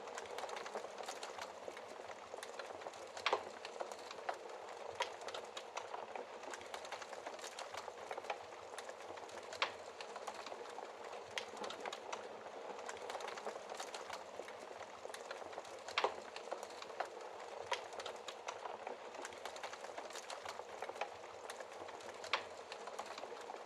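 Wood fire crackling in a fireplace: a steady hiss of small crackles with sharp pops scattered through it, the loudest about a quarter of the way in, near the middle and again near the end.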